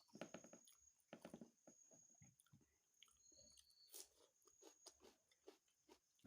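Close-miked mouth chewing during a mukbang of chicken curry and rice: runs of quick, soft, wet clicks and smacks, with the busiest chewing near the start and about a second in.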